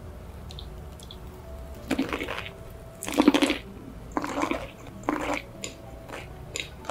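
Close-miked chewing of a big bite of boneless fried chicken topped with sauce and mayonnaise, its crispy coating crunching in about five short bursts roughly a second apart.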